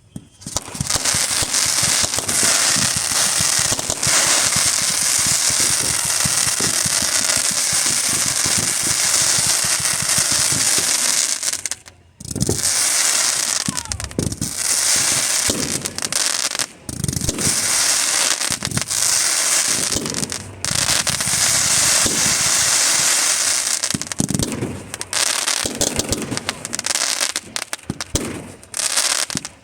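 Fireworks going off: dense, continuous crackling with many sharp pops, broken by a few brief lulls, and deeper bangs mixed in during the second half.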